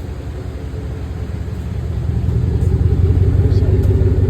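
Chevrolet Silverado's 5.3-litre V8 running, its exhaust piped straight after the catalytic converter, with a steady low rumble that grows louder about two seconds in.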